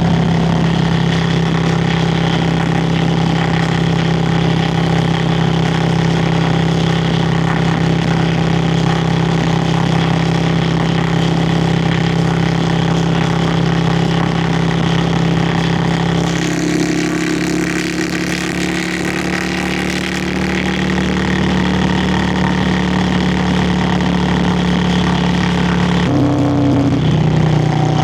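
Yamaha Virago XV535's air-cooled V-twin running steadily under way, its exhaust note over wind noise. The engine note changes about two-thirds of the way through and shifts again briefly near the end.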